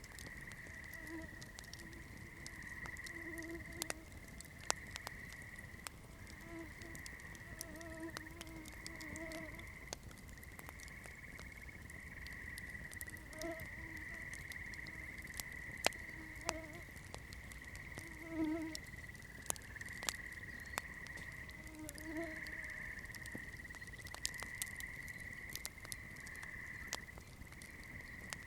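Wood campfire burning, crackling with irregular sharp pops over a low rumble, with a steady high-pitched tone running underneath.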